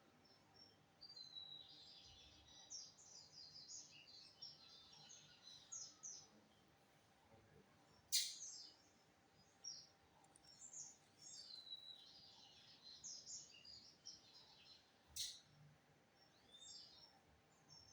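Lined seedeater (bigodinho) singing: phrases of rapid high chirping notes, with a sharp, loud high note about eight seconds in and again near fifteen seconds.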